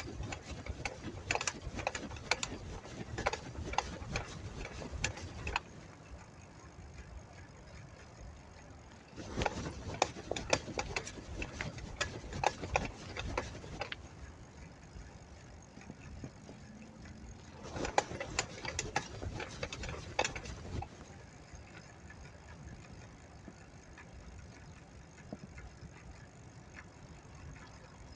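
Bicycle clicking and rattling as it is ridden, in three louder stretches of dense clicks with quieter rolling noise between.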